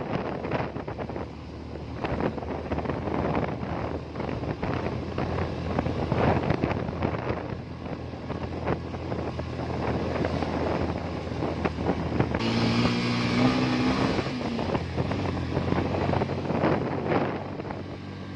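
Motorcycle engine running under way, with wind buffeting the microphone. About twelve seconds in, a hiss and a louder, rising engine note come in for a couple of seconds.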